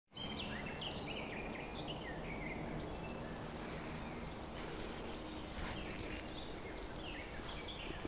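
Forest birds singing: a run of short chirping phrases with quick rising and falling notes, busiest at the start and again in the second half, over a steady low background rumble.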